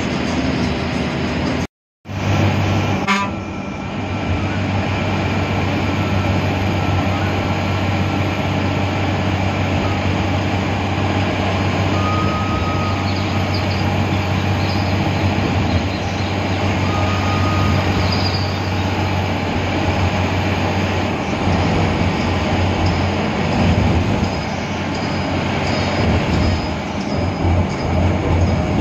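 Air-conditioned bus running on the road: a steady engine and road-noise drone with a strong low hum. It cuts out completely for a moment about two seconds in.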